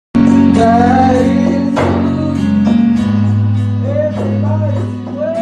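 Worship band music starting abruptly: guitar over long held bass notes, with a melody line bending in pitch above them.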